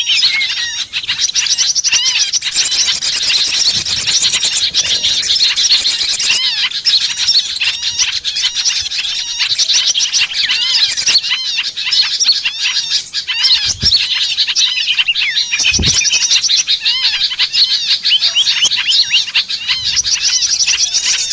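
Dense, continuous chorus of many small birds chirping and twittering in quick overlapping notes, as used in a lure call to draw small birds in. Two brief low thuds sound in the second half.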